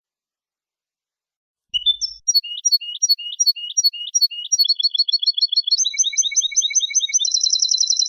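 European goldfinch singing: silence, then about two seconds in a phrase of repeated sliding notes that speeds up into fast, high trills, ending in a quick downward slur.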